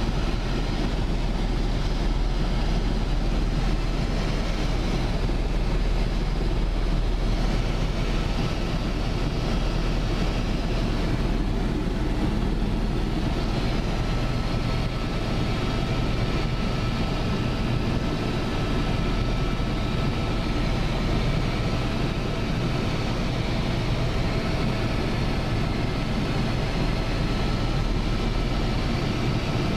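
Steady, loud running noise of a vehicle in motion: a deep, even hum under a steady hiss, with no change in pace.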